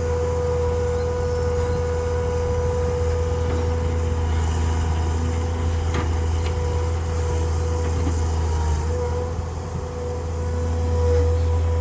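Land truck's engine running steadily, a low hum with a steady whine over it and a few light knocks around the middle.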